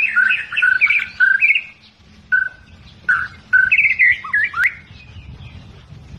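Albino white-rumped shama (murai batu) singing: rapid clear whistled phrases in two bursts with a short pause between, the second ending in upward-sliding notes. A faint steady low hum lies underneath.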